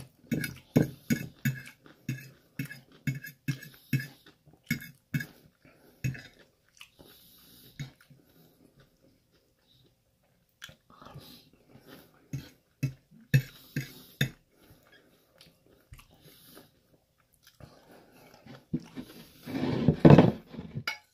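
Close-up chewing of chicken stir fry with snap peas and celery: wet mouth clicks and crunches about three a second for several seconds. After a pause, the chewing goes on more sparsely, and a louder, longer mouth sound comes near the end.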